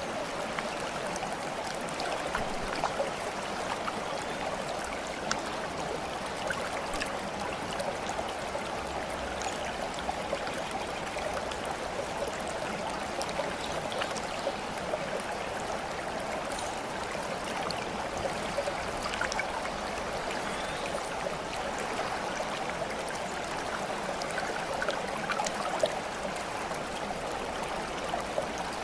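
Water flowing steadily like a small stream, with scattered little splashes and drips throughout.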